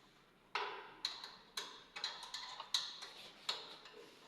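A series of about seven sharp metallic clicks and taps at an irregular pace, each with a brief ring.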